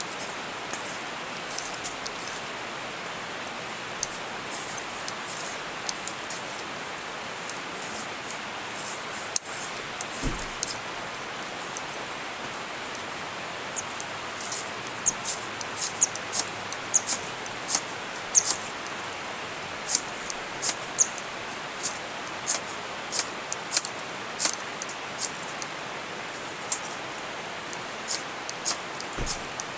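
Wood campfire burning: a steady hiss with irregular sharp crackles and pops, which grow more frequent about halfway through.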